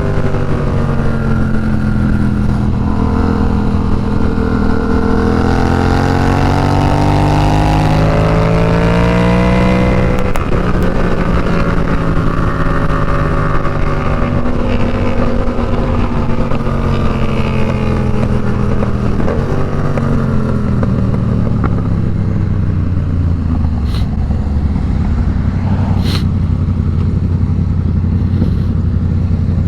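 Yamaha FZ-07 motorcycle engine under way, its pitch climbing as it accelerates, dropping sharply at a shift about ten seconds in, then rising and falling again before running steadier near the end.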